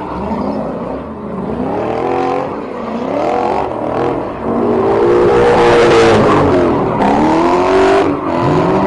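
Car engine revved repeatedly, its pitch climbing and dropping, then held at high revs for a few seconds about halfway through before dropping and climbing again.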